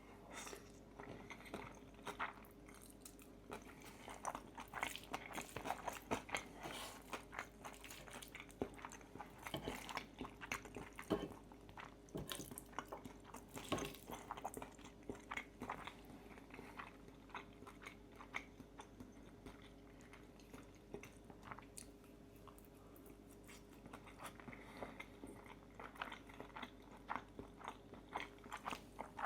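Close-miked eating of pesto fettuccine with crispy bacon: irregular wet chewing, biting and small crunches, with a quieter, sparser stretch past the middle.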